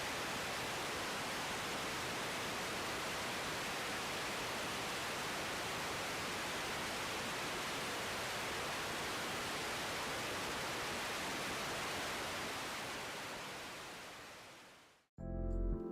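Steady, even hiss that fades out over a few seconds, then background music starts near the end.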